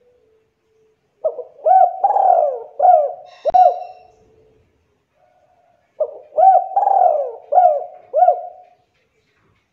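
Spotted dove (tekukur) cooing in two phrases of four or five rolling coos each, the second starting about six seconds in. A sharp click sounds in the middle of the first phrase.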